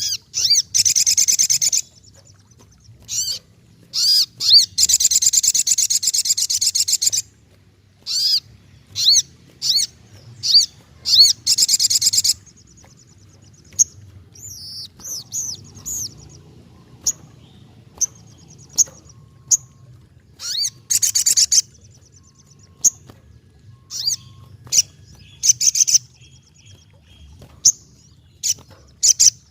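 Sogokontong (brown-throated sunbird) singing loudly in full song. It gives high, rapid, buzzy trills lasting up to about three seconds, the longest from about four to seven seconds in, with short sharp chip notes and softer twitters between the phrases.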